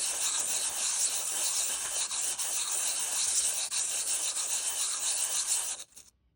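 Motorcycle brake pad being rubbed back and forth on P400 emery paper on a flat board: a steady scratchy sanding that cuts off suddenly near the end. The light sanding takes the glaze off the pad's friction face, glazing that causes brake squeal.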